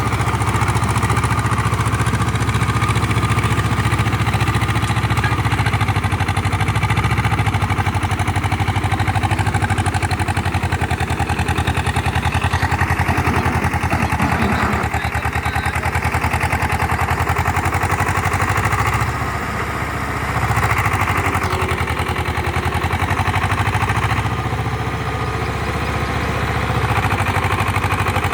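Tractor diesel engine running steadily under load while driving a rotavator through a flooded paddy field to puddle the mud. The engine sound eases briefly twice, once about two-thirds of the way in and again near the end.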